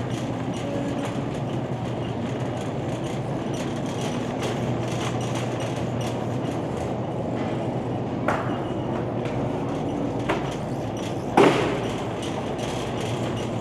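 A shopping cart rolling and rattling over a hard store floor, over a steady low hum. There are two small knocks, then a sharper, louder knock near the end.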